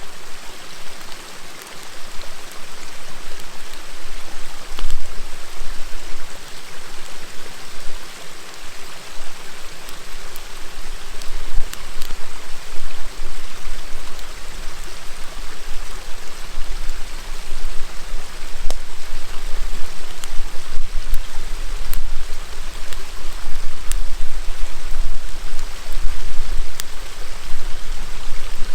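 River water flowing steadily, with a few sharp crackles from a wood campfire scattered through it.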